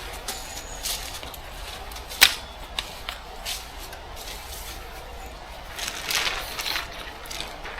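Scattered light knocks and rustles, with one sharp click about two seconds in and a short run of rustling a little after six seconds.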